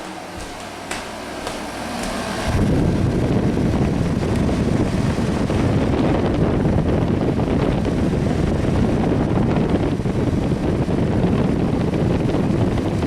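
Room air-conditioning (refrigeration) unit that comes on about two and a half seconds in and then runs with a loud, steady air noise. A few faint ticks come before it starts.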